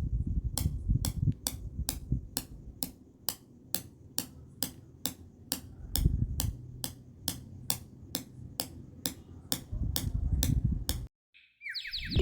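Regular sharp tapping knocks, about three to four a second, over a low rumble, stopping abruptly about eleven seconds in.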